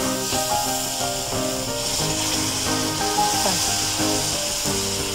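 Onions and ginger-garlic paste frying in hot oil in a pan, a steady sizzle with a spatula stirring and scraping the pan, under background music.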